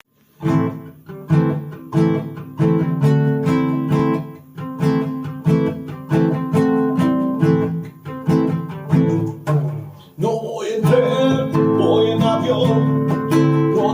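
Acoustic guitar strummed in steady, evenly spaced chord strokes, each chord ringing out before the next, as the intro of the song. About ten seconds in the playing turns continuous and a wavering melodic line joins over it.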